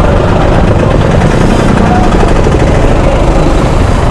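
Suzuki Gixxer SF motorcycle's single-cylinder engine running at low speed close to the microphone, loud and steady, with road traffic noise around it.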